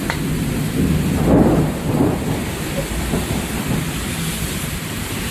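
Heavy rain falling, with a low rumble that swells about a second in and then eases.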